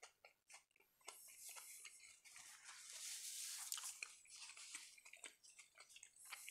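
Faint close-miked mouth sounds of a man chewing with his mouth closed: soft scattered clicks of lips and tongue, with a soft hiss around the middle.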